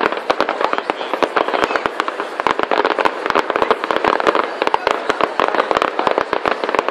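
Fireworks display going off: a dense, irregular stream of bangs and crackles, several a second.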